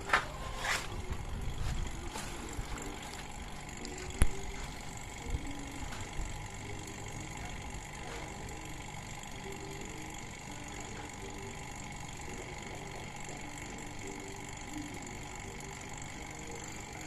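Refrigeration vacuum pump running steadily, evacuating the air conditioner's refrigerant lines before charging. A few knocks sound in the first seconds, the sharpest about four seconds in.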